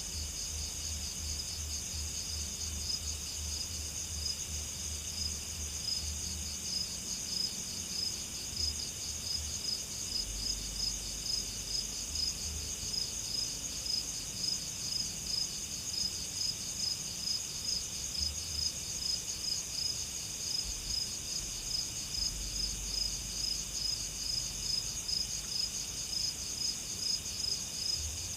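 Chorus of crickets trilling steadily, a fast, even high-pitched pulsing that does not let up, with a faint low rumble coming and going underneath.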